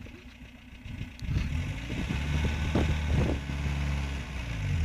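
Morris Oxford estate car's engine ticking over quietly, then picking up about a second in and running louder and steadily as the car is driven slowly.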